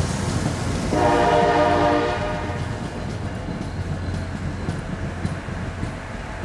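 A train running past with a steady rumble, and a locomotive air horn sounding one short chord of several tones about a second in, lasting around a second before it fades.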